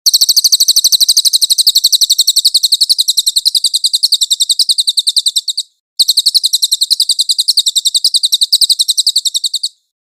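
A bird's rapid, high-pitched trill of evenly repeated notes in two long runs, broken by a short pause about six seconds in: a masteran recording used to tutor caged songbirds.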